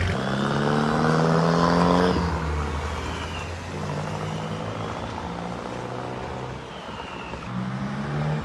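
Vuhl 05's turbocharged engine under hard acceleration: the revs climb for about two seconds, drop sharply at a gear change, then it pulls on steadily, rising again near the end.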